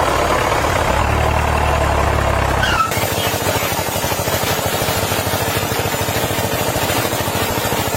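Small electric motor of a homemade miniature saw running steadily. A low hum stops about three seconds in, and a rough, fast-rattling buzz carries on.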